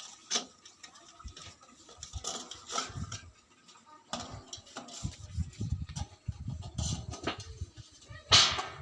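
Scattered irregular taps of raindrops, with gusts of wind buffeting the microphone in the second half and a louder rushing gust near the end.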